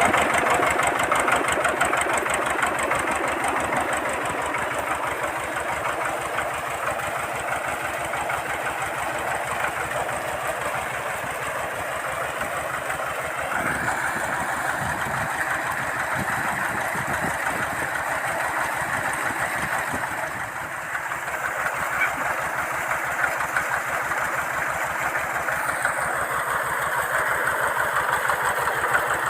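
Tractor engine running steadily with a rapid, even firing beat, driving a PTO water pump. The level dips slightly about twenty seconds in.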